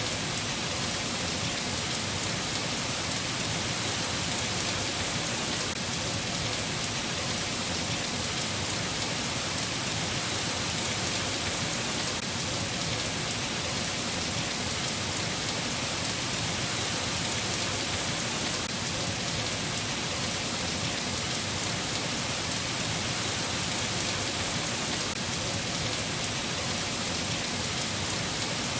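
Steady rain falling: an even hiss with a close patter of drops, unchanging throughout.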